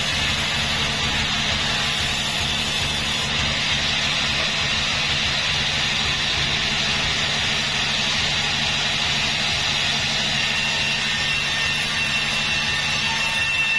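Sawmill machinery running steadily: a low engine drone under an even high hiss.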